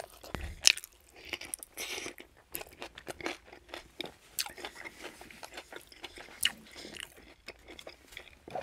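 A person chewing a mouthful of chicken ranch wrap in a jalapeño cheddar tortilla, with irregular sharp crunches, the loudest about two-thirds of a second in.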